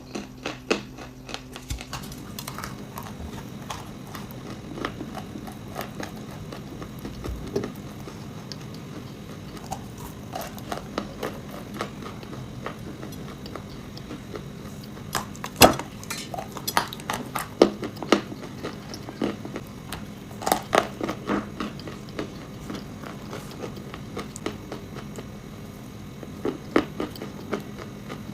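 Close-up crisp crunches and snaps of someone biting and chewing hard, brittle food, coming in uneven clusters with pauses between, the loudest bites a little past the middle. A faint steady hum lies underneath.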